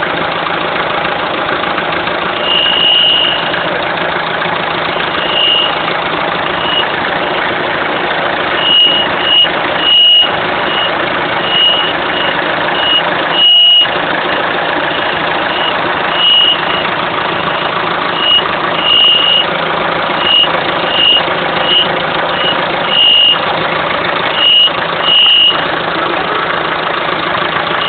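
Citroën C4 HDi turbodiesel idling while warming up from cold, with a high-pitched whistling ring that cuts in and out in short, irregular bursts over the steady engine noise. It is a fault that shows only during the morning warm-up.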